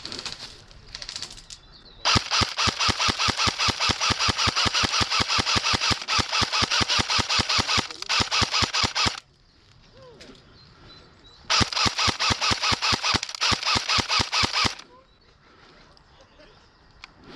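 Electric airsoft rifle, a SPARTAC AK47M Tactical replica, firing on full auto in three bursts of rapid, evenly spaced clicks. The first burst lasts about six seconds, the second about a second, and the third about three seconds.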